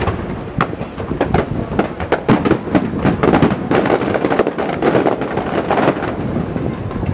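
Fireworks going off in quick succession: a dense run of sharp cracks and pops that thins out near the end.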